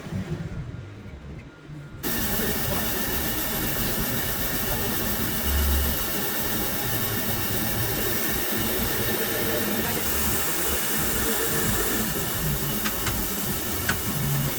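A steady hissing noise that starts abruptly about two seconds in, after a quieter, fading opening, and holds evenly from then on.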